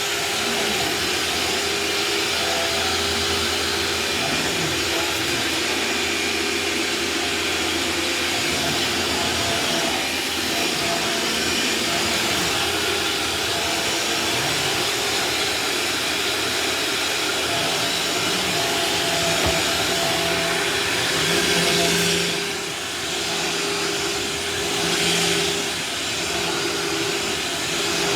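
Vacuum cleaner running steadily, its level dipping and swelling a few times near the end.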